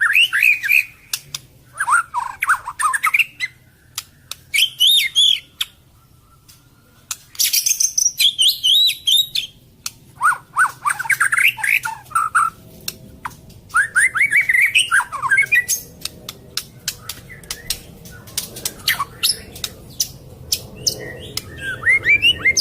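White-rumped shama (murai batu Medan) singing in bursts of varied whistled phrases that sweep up and down, packed with mimicked song of other birds ('full isian'). Sharp clicks sound between the phrases, with short pauses between bursts.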